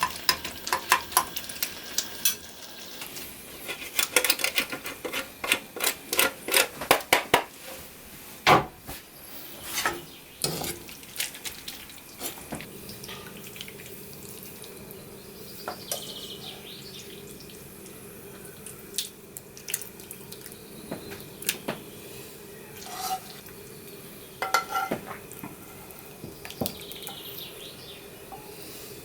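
Dishes, pans and cutlery clinking and knocking against one another, many quick knocks in the first half and scattered ones later, some ringing briefly.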